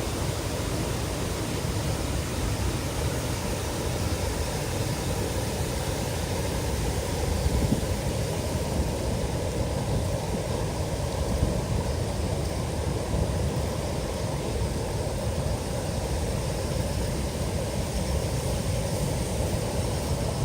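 Steady rushing roar of a river swollen by typhoon floodwater, heaviest in the low end.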